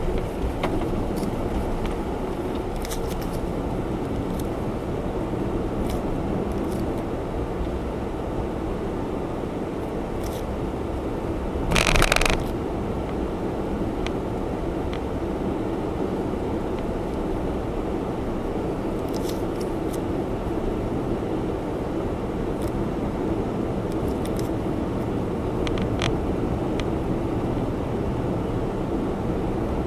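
Honda Zest Spark kei car heard from inside while driving: a steady mix of engine and road noise, with faint scattered clicks and a brief louder rush about twelve seconds in.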